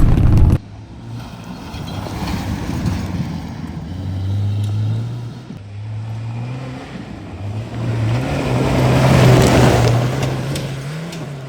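Pickup truck engine accelerating along a dirt course, the revs climbing, dipping once about halfway through, then climbing again and holding. A rush of tyre and dirt noise swells in with it, loudest about nine seconds in, then fades.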